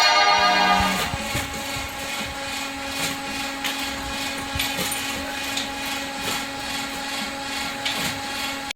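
Engine cracker running, a steady mechanical hum with frequent scattered metal clanks and rattles as scrap engines are broken into pieces. Background music fades out about a second in.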